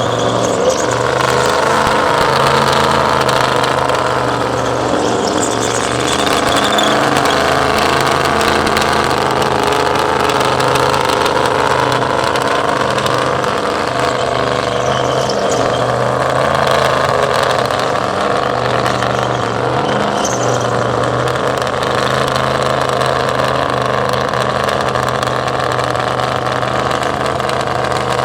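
Truck engine held at steady high revs through a burnout, with a broad rushing noise over the engine note the whole time.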